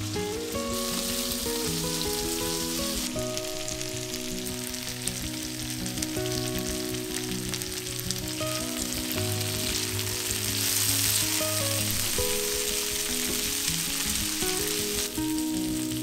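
Green peppers and potato pieces sizzling as they fry in a pan, the sizzle growing louder about two-thirds of the way through. Soft background music plays underneath.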